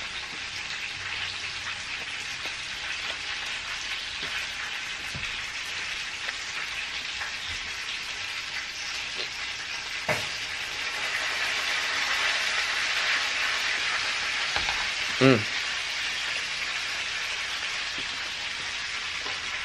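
Chicken drumsticks frying in hot oil: a steady sizzle that grows a little louder about halfway through. A single sharp click about ten seconds in and a brief vocal sound a few seconds later.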